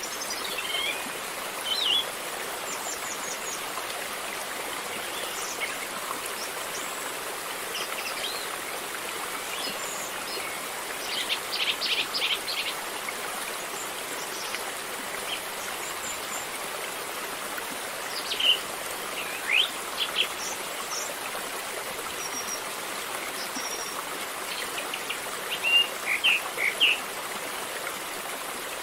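Steady rush of a flowing river, with birds calling over it in short chirps. There is a quick run of several chirps about twelve seconds in and a cluster of chirps near the end.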